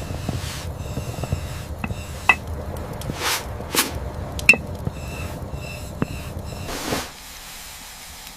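Kitchenware being handled: sharp taps and a few ringing clinks over a low steady rumble, with two short swishes near the middle. The rumble stops about a second before the end.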